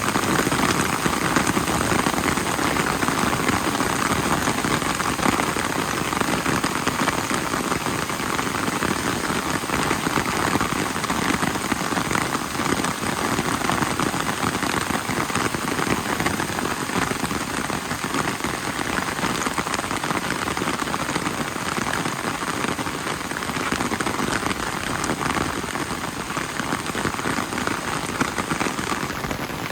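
Heavy rain falling steadily, with a faint high steady tone above it that stops near the end.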